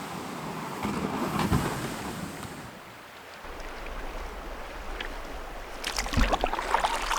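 Water sloshing around a canoe on the move, with wind buffeting the microphone and a cluster of splashes from paddle strokes about six seconds in.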